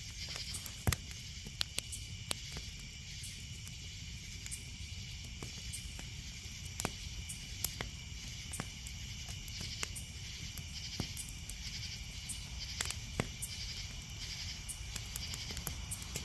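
Campfire crackling, with sharp pops every second or so, over a steady chorus of insects chirping in a pulsing rhythm.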